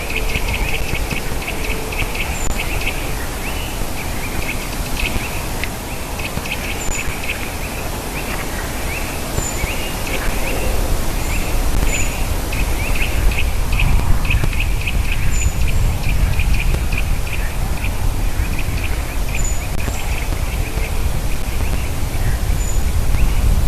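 Small birds calling: a busy, continuous run of short chirps with scattered very high, thin notes, over a steady low background rumble.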